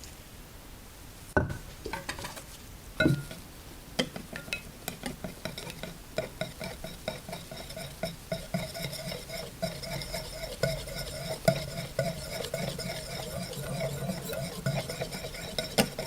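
A utensil stirring milk, cooking oil and a little batter in a bowl. Two clinks against the bowl come in the first few seconds, then quick, steady stirring strokes tick against its side with a faint ring.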